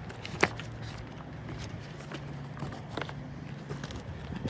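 A cardboard shipping box being opened by hand, flaps pulled loose against staples, with a sharp snap about half a second in and a smaller one about three seconds in.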